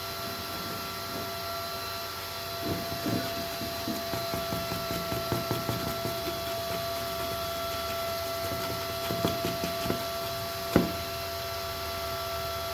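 Steady electrical hum with a few fixed high tones. From about two and a half seconds in it is joined by scattered small clicks and knocks of objects being handled on a workbench, with one sharper knock near the end.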